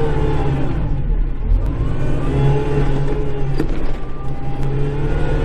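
Kubota Grand L5740 tractor's diesel engine running steadily, heard from inside the cab, its note easing off about a second in and picking back up. A single sharp click about three and a half seconds in.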